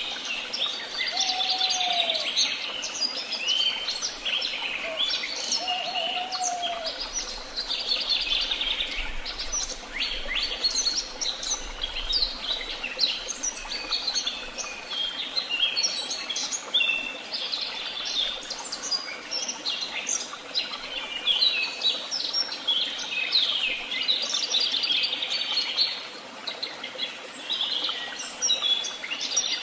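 A chorus of many songbirds singing at once: dense overlapping chirps, trills and whistles with no break. Two short, lower, arched whistled notes come in the first few seconds.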